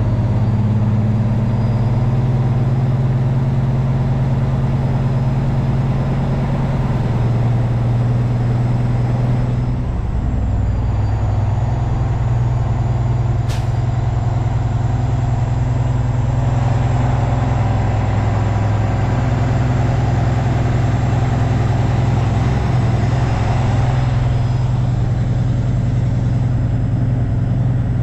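Semi truck's diesel engine running steadily as the rig drives along, its low note shifting about ten seconds in and again a few seconds later. A single sharp click about halfway through.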